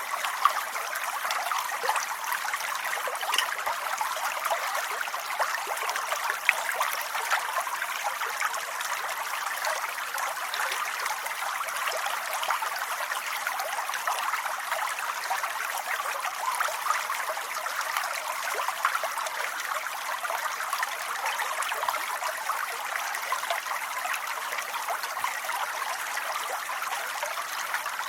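Steady rain: a dense, even hiss of falling drops with scattered small ticks.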